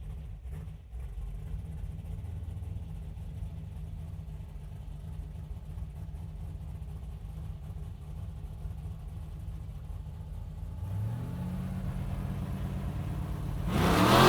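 Car engine idling steadily with a low hum. About eleven seconds in, its pitch rises as it revs, and near the end a sudden loud rush of noise takes over as it accelerates.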